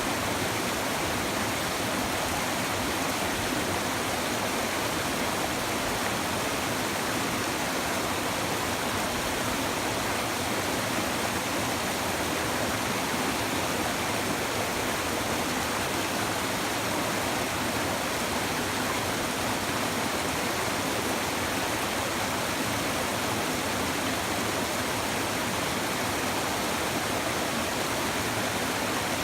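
Steady rushing of a shallow river over stones, with no break.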